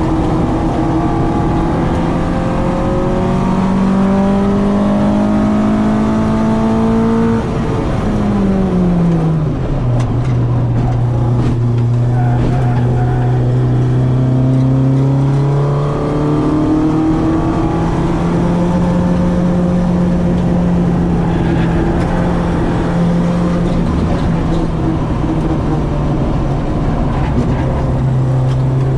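Citroen AX 8-valve four-cylinder engine on twin Weber 40 carburettors, under load at speed. The revs climb for about seven seconds, drop sharply about eight seconds in, then hold fairly steady with slow rises and falls.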